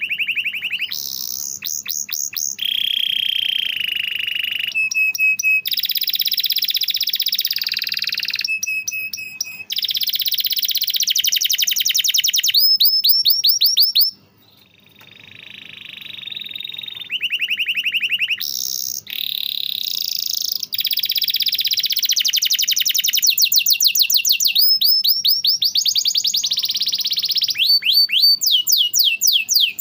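Domestic canary singing a long, continuous song of rapid rolling trills, fast repeated rising sweeps and held buzzy notes, with only one brief pause about halfway through.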